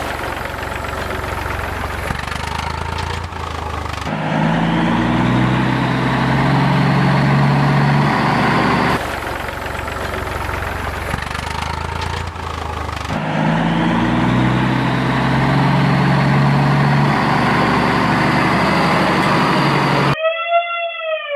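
Heavy vehicle engine running, then revving up to a steady higher drone about four seconds in. The same passage starts over about halfway through, like a looped sound effect, and cuts off abruptly just before the end.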